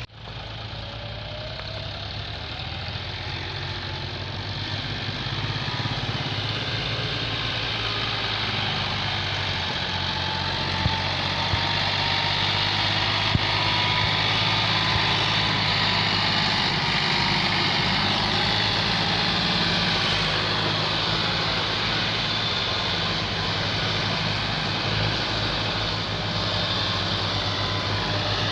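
Diesel tractor engine running steadily, growing somewhat louder over the first ten seconds or so.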